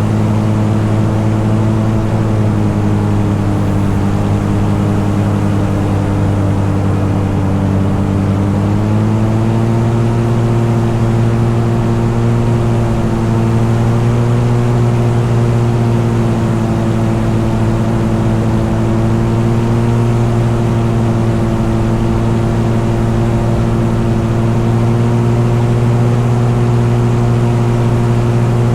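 Engine running steadily at cruising speed; its pitch sags slightly, then picks back up about eight seconds in and holds steady.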